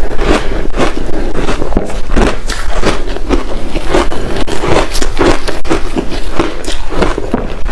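Biting and chewing chunks of reshaped ice dusted with matcha powder: a steady run of loud crunches, two or three a second.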